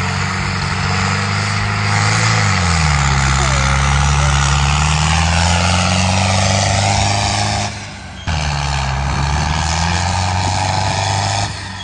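A heavy vehicle's engine running loud. Its pitch drops a little about two and a half seconds in, then climbs slowly back. The sound briefly drops away about eight seconds in, then carries on.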